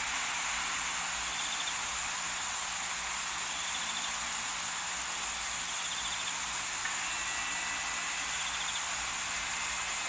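Steady outdoor bush ambience: an even hiss with a short buzzy trill repeating about every one and a half to two seconds, and a thin steady tone joining about seven seconds in.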